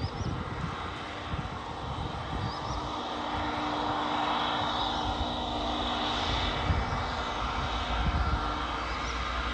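Airbus A321neo's Pratt & Whitney PW1100G geared turbofan engines running, a steady jet rumble and hiss that swells slightly through the middle.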